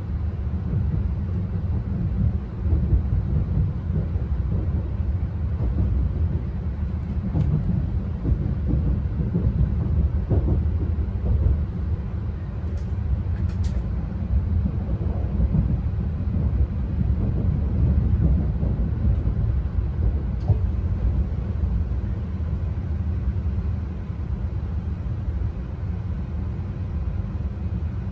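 Steady low rumble of a Tohoku Shinkansen train running, heard inside the passenger cabin, with a few faint clicks midway.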